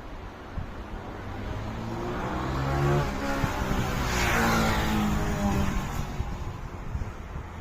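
A motor vehicle passing by: its engine and tyre noise swell, peak about halfway through, then drop in pitch and fade as it goes away.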